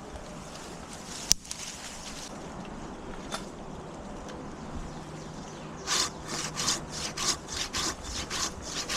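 Pruning handsaw cutting through a maple branch, starting about six seconds in with quick, even back-and-forth strokes, about three a second. A single sharp click comes about a second in.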